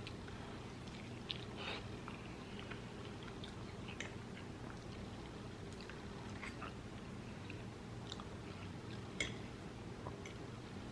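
Close-miked chewing of soft food (meatballs and vegetables): scattered wet mouth clicks and smacks, a couple of them sharper, over a steady low hum.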